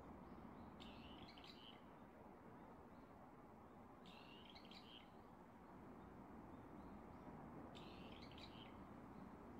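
Faint bird song: a short phrase of high chirps, heard three times, about three seconds apart, over a low steady background hiss.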